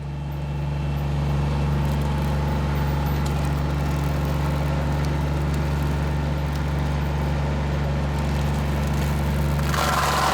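Tractor engine running steadily at a low hum. Near the end a higher whine and hiss join in.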